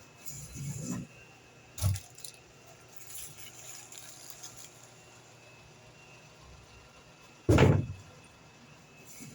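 Handling noises on a study desk: a brief rustle, a sharp knock, then a heavy thump about three quarters of the way through.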